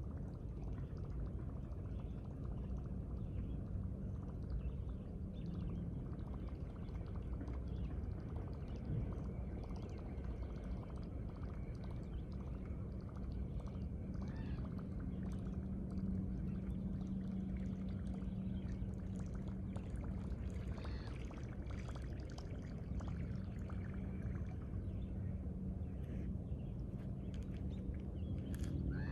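Steady riverside ambience: water moving along the bank under a constant low machinery hum, with faint bird chirps now and then.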